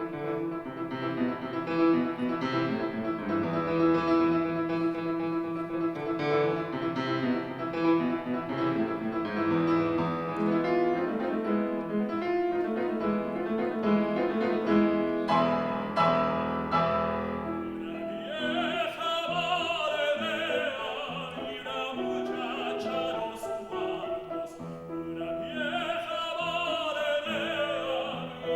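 Piano playing alone for about the first two-thirds, then a tenor voice enters singing in operatic style with strong vibrato over the piano accompaniment.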